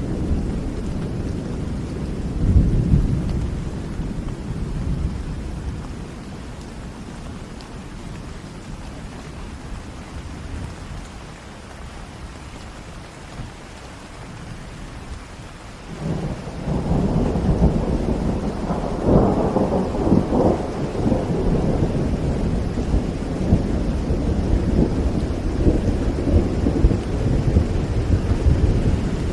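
Thunderstorm: steady rain under rolling thunder. A deep rumble fades away over the first half, then a new peal breaks in suddenly about halfway through and rumbles loudly, with crackling cracks a few seconds later.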